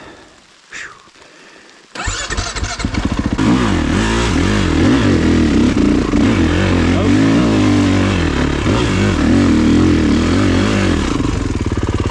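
Kawasaki KX450 single-cylinder four-stroke dirt bike engine starts about two seconds in and is revved up and down while the rear tire spins in wet mud on a hill climb without finding traction. Near the end it settles to a steadier run.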